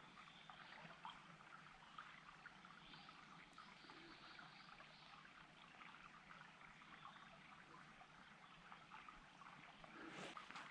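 A mountain stream trickling and babbling over rocks, faint and steady.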